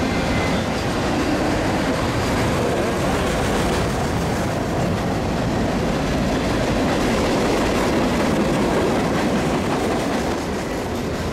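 Union Pacific manifest freight train's autoracks and covered hoppers rolling past at speed: a steady rush of steel wheels on the rails.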